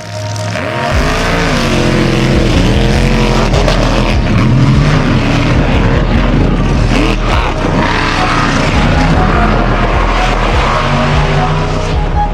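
Monster truck engines revving loudly, their pitch rising and falling again and again, over a steady low hum.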